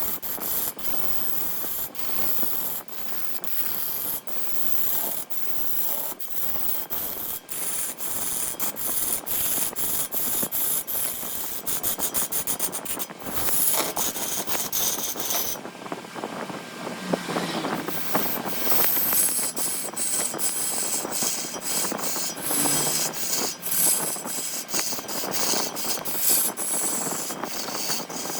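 A turning tool cutting a spinning wooden blank on a large wood lathe: a rough, continuous scraping shot through with rapid ticks, easing off briefly about halfway before going on.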